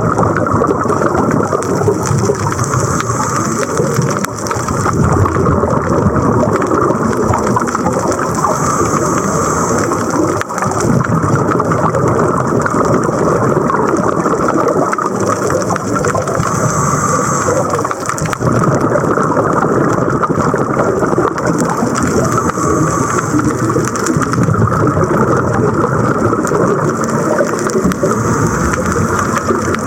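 Steady rushing noise of a camera recording underwater on a scuba dive, with a brighter hiss swelling about every five to six seconds.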